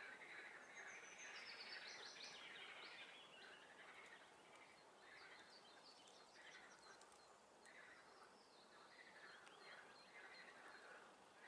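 Faint spring swamp chorus of frogs and songbirds: short calls repeating about once a second, with a bird's quick run of high notes stepping down in pitch in the first few seconds.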